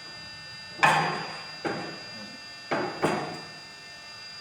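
Four sharp metal clanks, the first the loudest, each ringing briefly, as parts of a TC 2600 truck tyre changer are locked in place; a steady machine hum runs underneath.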